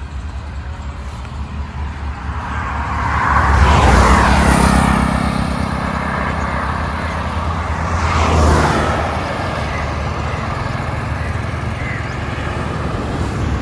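Highway traffic passing a roadside stop: a steady rumble of traffic, with two vehicles going by close, about four seconds and eight and a half seconds in, each swelling and fading away.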